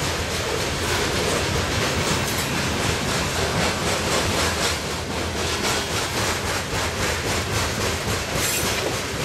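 Freight train of coal hopper cars rolling past, steady rumble with the wheels clicking over the rail joints again and again.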